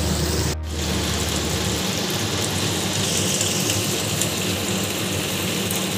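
Fish steaks sizzling in hot oil in a frying pan, with a short break about half a second in.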